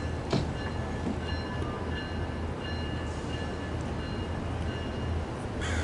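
Capitol Corridor passenger train pulling out, pushed by a Siemens Charger SC44 diesel locomotive: a steady low drone with faint, thin high metallic tones that come and go. A single click about a third of a second in.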